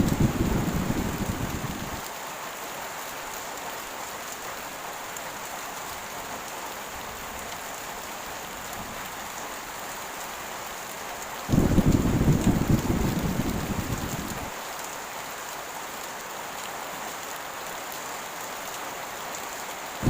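Heavy rain falling steadily. Low thunder rumbles over it: one dies away in the first two seconds, and another breaks in suddenly about halfway through and fades out over about three seconds.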